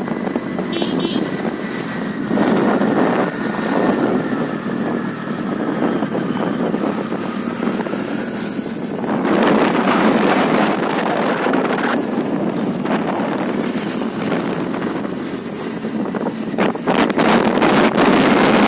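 Wind buffeting the microphone on a moving Honda Dio scooter, with the scooter's engine and road noise underneath. The rushing noise swells and dips, and a faint whine slowly drops in pitch over the first half.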